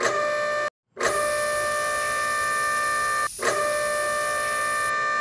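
Cartoon garage-machine sound effect: a steady buzzing electronic tone that cuts out briefly just before a second in and dips around three and a half seconds in. A hiss of spray paint lies over it from about a second in until near the end.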